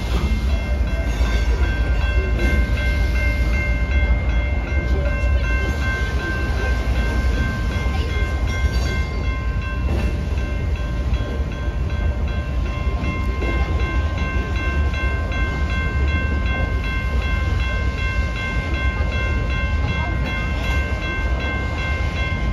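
A train running by: a heavy, steady low rumble with a thin, high-pitched whine held over it.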